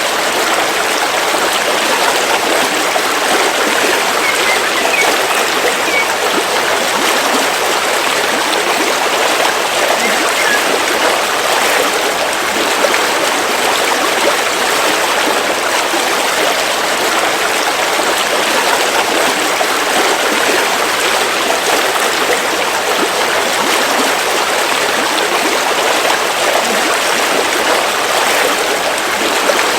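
River water flowing steadily over rocks, a continuous even rush with light trickling. A few faint bird chirps come through around a quarter of the way in.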